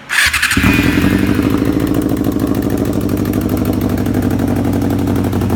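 Yamaha YZF-R6 inline-four engine cranked on its starter, catching about half a second in, then idling fast and steady. It is loud, running on a straight exhaust.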